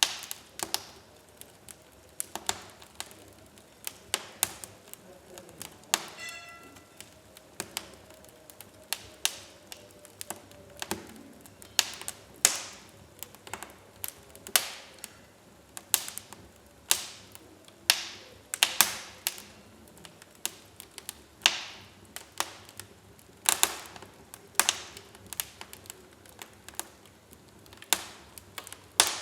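Wood fire crackling in a fireplace: irregular sharp pops and snaps, a few a second, over a faint hiss, with a brief high whistle about six seconds in.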